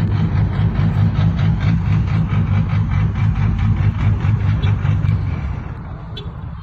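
Car engine running loudly close by, its exhaust pulsing evenly at about six beats a second, getting quieter about five seconds in.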